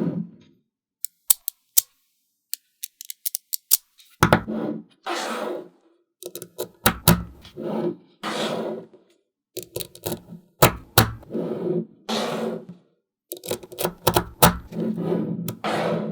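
Small magnetic balls clicking sharply as they snap together, in short runs of clicks, broken by stretches of rattling about a second long.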